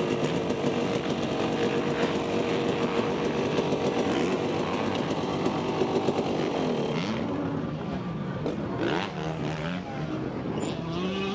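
KTM 250 SX two-stroke motocross engine running at a steady low speed, its pitch then wavering up and down unevenly over the last few seconds.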